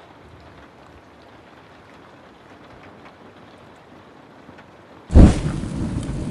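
Faint, steady rain hiss with a few small crackles. About five seconds in, a sudden loud thunderclap breaks in and carries on as a heavy rumble.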